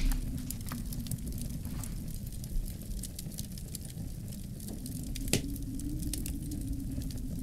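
Wood fire crackling in a fireplace, scattered small pops with one louder pop about five seconds in, over a low, steady howl of winter wind.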